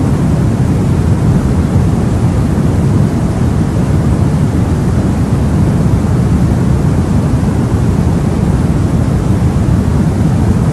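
Steady white noise for baby sleep: an even, unchanging rush, deep rather than hissy, with most of its weight in the low end.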